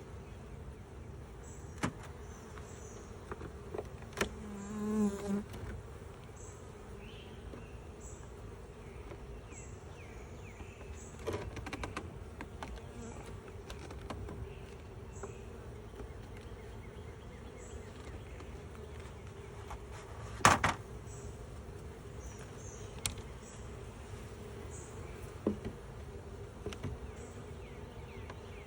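Steady buzzing of a colony of Russian honey bees around an open hive. A few sharp knocks cut through it, the loudest about twenty seconds in.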